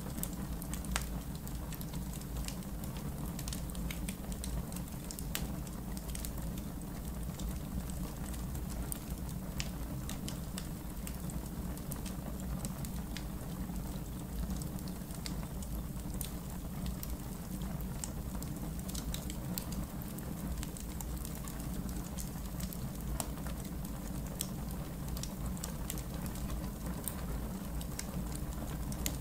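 Wood fire in a backyard fire pit burning steadily, with a low rumble and irregular sharp crackles and pops.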